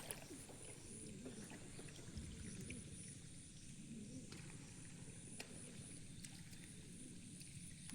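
Faint sloshing and trickling of shallow water, with a few soft knocks.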